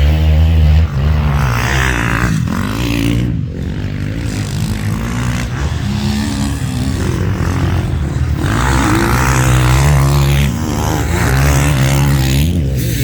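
Motocross bike engine revving up and dropping off again and again through the gears, with a rushing noise over it.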